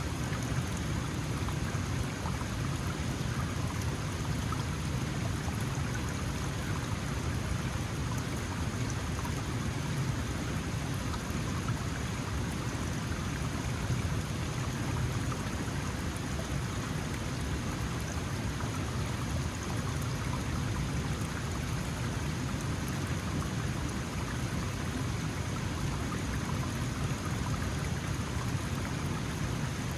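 Small mountain stream flowing, a steady rushing and babbling of water with no change in level.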